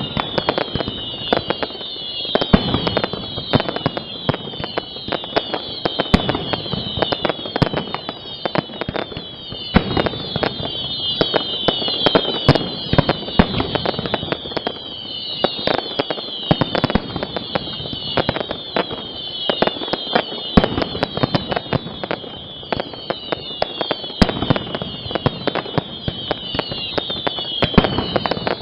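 Aerial fireworks display (castillo) going off: a dense, continuous run of bangs and crackles with many overlapping whistles that fall in pitch.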